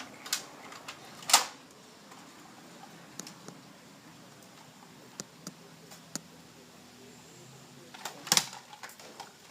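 Scattered sharp clicks and knocks over faint room hiss, with two louder knocks, one about a second in and one near the end.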